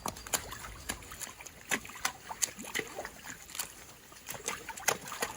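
Splashing steps through shallow floodwater, irregular sloshing strikes about three a second, as ponies' hooves and feet wade along a waterlogged path.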